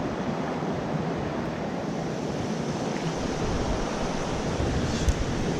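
Mountain stream water rushing steadily over rocks, with one short low knock about five seconds in.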